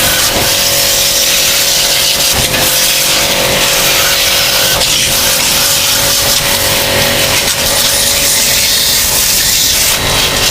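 Pressure washer running steadily, its water jet hissing onto an air conditioner's outdoor unit during washing.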